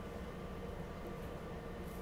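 Steady low rumble and hum inside a SEPTA Regional Rail passenger car, with a faint high tick near the end.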